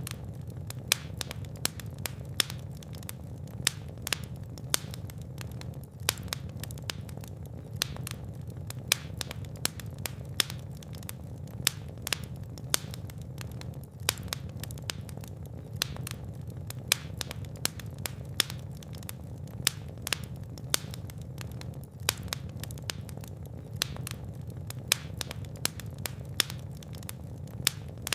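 Fire in a fireplace crackling, with many sharp irregular pops, several a second, over a steady low rumble of the flames.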